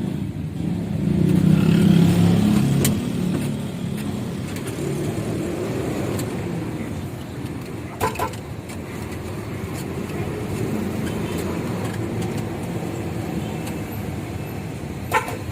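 Isuzu FTR truck's 6HK1 diesel engine running on biodiesel made from used cooking oil. It swells louder about a second in, then settles to a steady run. Two short clicks sound, about eight seconds in and near the end.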